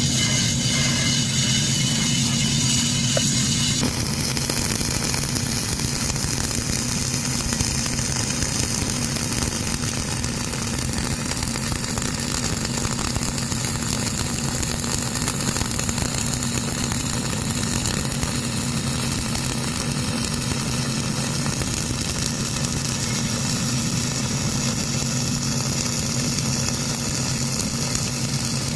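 Gas-shielded flux-cored arc welding with 1.2 mm wire under 80/20 argon-CO2 at about 200 A and 21 V: a steady arc hiss over a low electrical hum, the hiss settling in about four seconds in.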